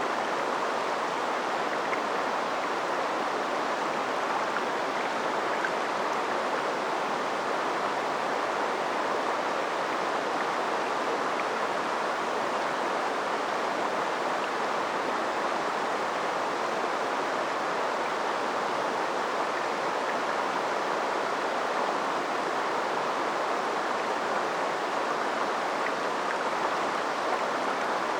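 River water flowing over shallows: a steady rushing babble.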